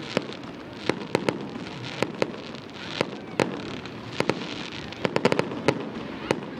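Aerial fireworks display: shells going off in sharp, irregularly spaced bangs, with a quick cluster of reports about five seconds in.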